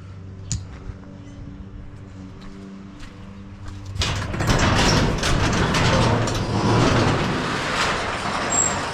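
Tomos Silver Bullet moped's two-stroke engine idling with a steady hum, with a single click about half a second in. About four seconds in, a much louder, rough rushing noise takes over for about four seconds and eases off near the end.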